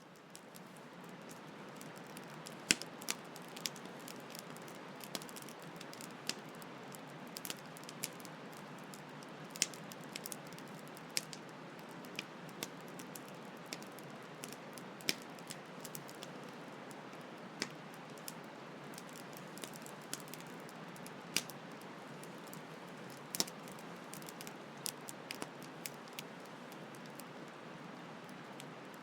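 Campfire crackling: irregular sharp pops and snaps over a steady hiss, fading in at the start.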